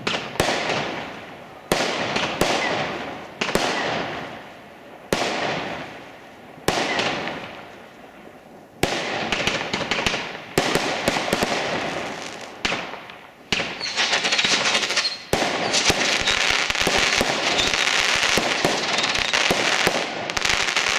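Fireworks: a loud bang about every second and a half, each followed by a fading crackle, then denser and denser bursts merging into a continuous crackling barrage for the last several seconds.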